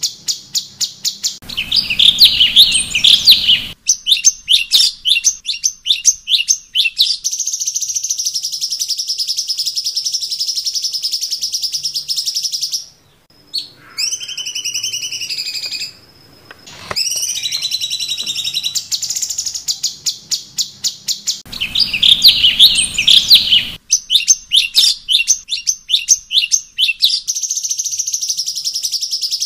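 Cucak cungkok singing long, varied song: rapid runs of ticking notes, loud warbling phrases, and long steady buzzing trills. A short pause about halfway through is followed by a few wavering, falling whistles before the trills resume.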